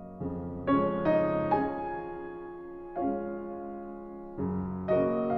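Soft background piano music: gentle notes and chords struck every half second or so, each left to ring and fade.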